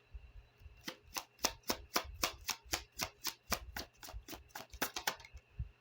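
Tarot deck being shuffled by hand: a quick, even run of card clicks, about five a second, starting about a second in and stopping shortly before the end.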